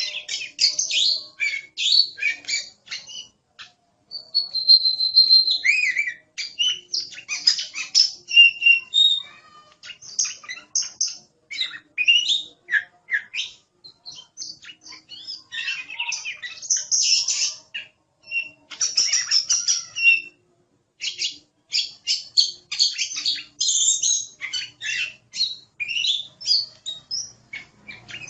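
Oriental magpie-robin (kacer) in full song: a long run of quick, varied whistles and chattering notes, high-pitched, with brief pauses about four seconds in and again around twenty seconds in.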